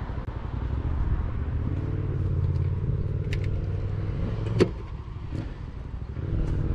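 Mazda RX-8's two-rotor Wankel engine running through a Re Amemiya aftermarket exhaust, the note climbing in pitch under acceleration. About two-thirds of the way through, a single sharp snap comes as the engine note drops off, and it builds again near the end.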